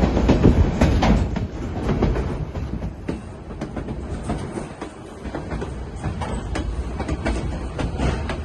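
Narrow-gauge White Pass & Yukon Route train rolling along the track: a steady low rumble with irregular clicks and clacks from the wheels. It is louder in the first second or so, then eases.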